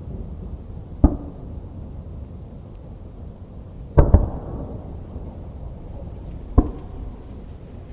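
Aerial firework shells bursting: a sharp boom about a second in, two close together in the middle, and another near the end, each followed by a low rolling echo.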